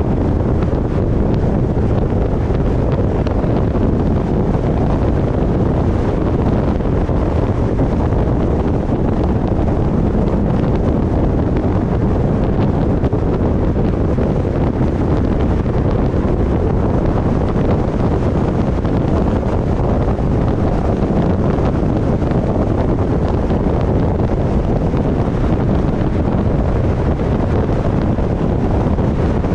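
Steady, loud wind noise buffeting a roof-mounted GoPro on a moving car, with no breaks or changes.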